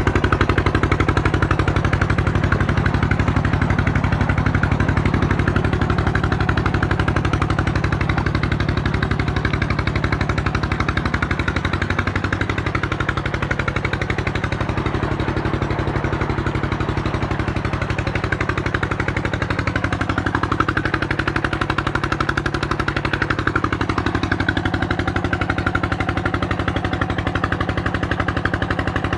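Small Petter-type diesel engine of a tube well pump running steadily with a rapid, regular exhaust beat. About eleven seconds in its speed drops slightly and it settles at the lower speed.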